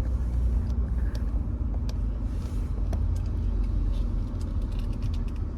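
Car engine running with a low, steady rumble heard from inside the cabin as the car rolls forward slowly, with a faint steady hum and a few light clicks.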